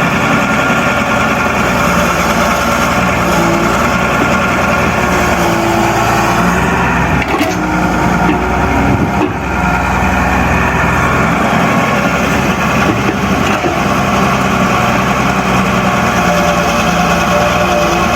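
Engine running steadily at an even pitch.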